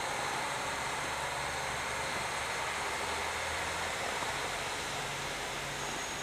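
KiHa 40 series diesel railcar running steadily: a low engine hum under an even hiss.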